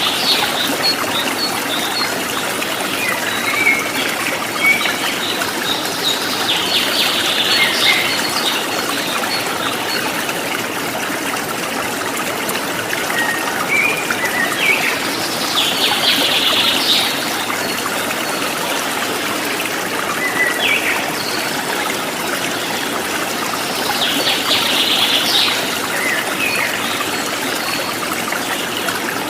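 Running water trickling steadily, with birds singing short phrases over it every several seconds.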